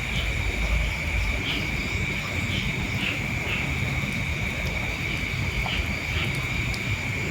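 Steady high-pitched insect drone, with short chirps every second or so. A low rumble of wind on the microphone runs beneath it.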